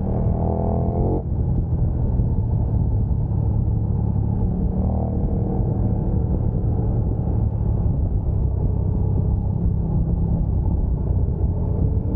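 Sport motorcycle engine under hard acceleration. It revs up for about a second, then drops sharply at an upshift, runs on steadily under heavy low wind rumble, and starts climbing again at the very end.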